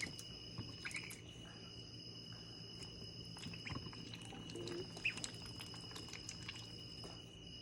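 Faint, steady high-pitched insect trilling, two thin tones with the higher one stopping and starting a few times, with a couple of brief soft chirps.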